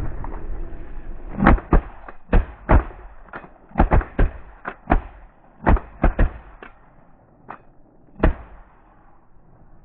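A rapid volley of shotgun shots from several hunters firing at a snow goose flock they have jumped: about fifteen sharp reports, bunched together over the first few seconds and thinning out to a last single shot. A steady din underneath dies away in the first second or so.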